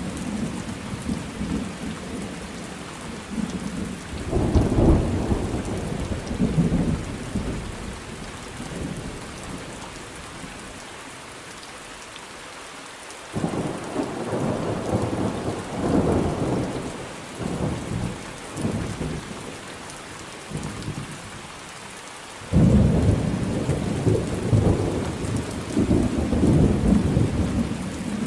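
Thunderstorm: steady rain falling, with deep rolling thunder. The thunder fades into a lull of rain alone, then a new rumble breaks in suddenly about halfway through and another near the end.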